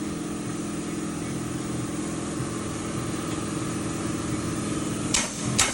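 Steady mechanical hum at a constant pitch, with two or three sharp clacks near the end.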